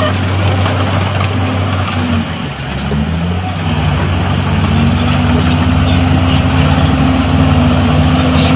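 Heavy diesel engine of earthmoving machinery running steadily. Its note dips briefly and changes about two and a half seconds in, then holds steady again.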